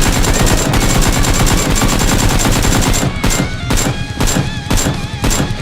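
Rapid automatic gunfire, an unbroken burst for about three seconds, then shots about three a second.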